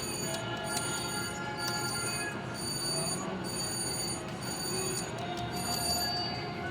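Slot machine spinning with electronic chimes and held beeping tones that start and stop every second or so, over the steady din of a casino floor.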